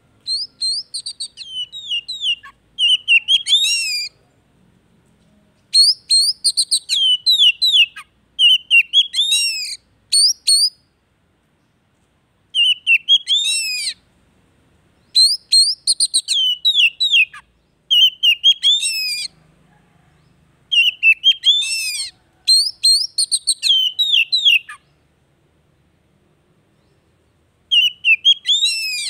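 Oriental magpie-robin (kacer) song in repeated phrases of fast whistles and chatters, with falling slurs and quick rising sweeps. A phrase comes every two to three seconds, with short pauses between. This is a lure song meant to provoke a silent kacer into singing.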